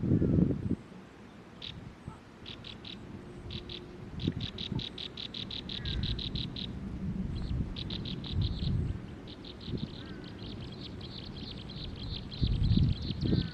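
Small bird chirping in fast runs of short, high, repeated chirps, becoming almost continuous near the end, with a few low rumbling bumps underneath.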